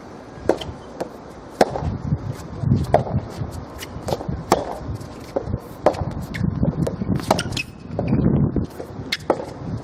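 Soft tennis rally: the soft rubber ball being struck by rackets and bouncing on the court, giving a string of sharp, irregular pops and knocks over a low background murmur.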